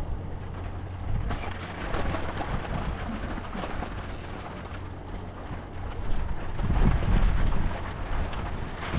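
Wind buffeting the microphone in low, rumbling gusts, swelling louder about seven seconds in.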